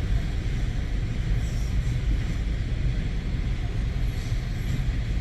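Coal train's freight cars rolling past on the rails: a steady low rumble.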